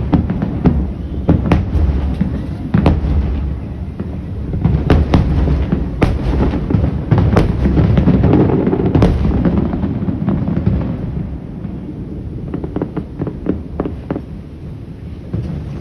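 Aerial fireworks display: many shells bursting in quick succession, with deep booms and sharp cracks over a continuous rumble. After about ten seconds the barrage thins out to scattered crackling.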